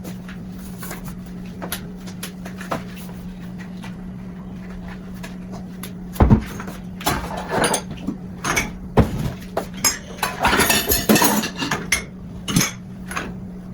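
Hard kitchen items clattering as they are picked up and set down, with sharp knocks and rattles that begin about six seconds in, while stove parts are taken off for cleaning. A steady low hum runs underneath.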